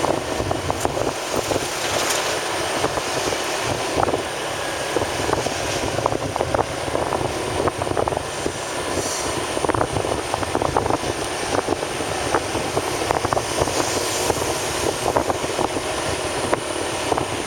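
A vehicle on the move: steady running and road noise with wind on the microphone and many light rattles and clicks.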